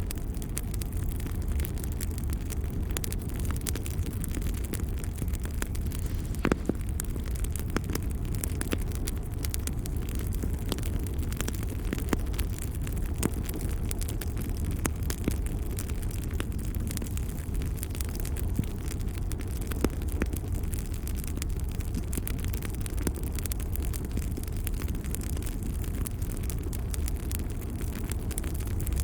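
Wood fire in a fireplace, burning with a steady low rumble and frequent small crackles and pops, one sharper pop about six and a half seconds in.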